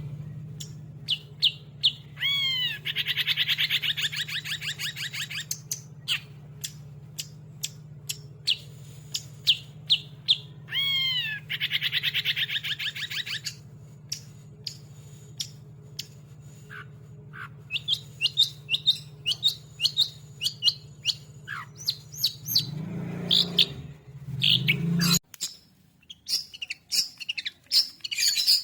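Long-tailed shrike (cendet) singing in an agitated way: many sharp, repeated chips and sweeping calls, with two rapid trilling runs near the start and about eleven seconds in. A steady low hum runs beneath and cuts off about 25 seconds in.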